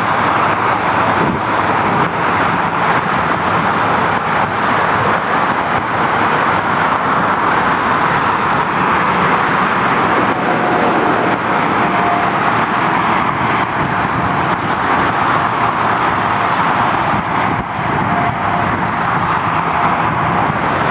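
GO Transit commuter train running with a steady, loud rumble and rushing noise, with a faint whine about ten seconds in and again near eighteen seconds.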